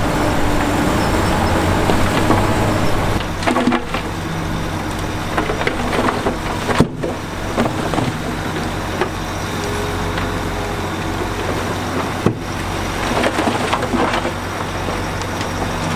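Heavy diesel earthmoving machinery running steadily, with scattered cracks and clatter of rock and dirt. The engine drops back a little about three seconds in.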